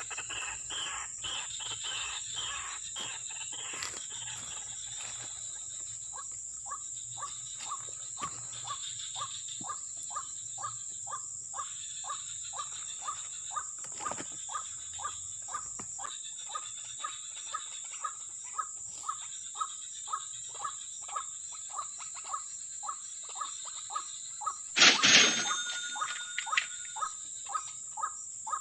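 Insects trill steadily, with a short animal call repeated about two to three times a second throughout. A single loud, sudden sound cuts in near the end.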